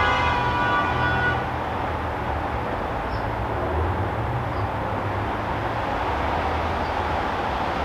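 A sustained, many-toned horn blast cuts off about a second and a half in. A steady low rumble with a hiss of noise continues after it.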